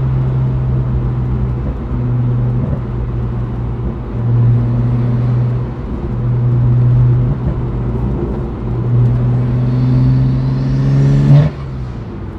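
BMW N54 twin-turbo inline-six of an E82 1 Series coupe, heard inside the cabin, pulling through the gears of a manual gearbox, its note dipping briefly at each of several shifts. Near the end a turbo whine rises, then cuts off sharply with a loud burst at a gear change.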